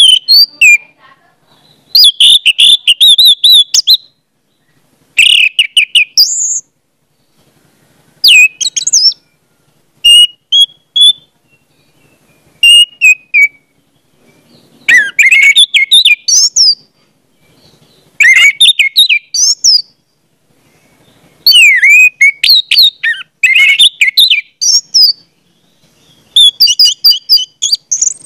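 A bird singing loudly in about nine phrases of quick, varied chirps and warbling whistles, each one to three seconds long, with short pauses between them.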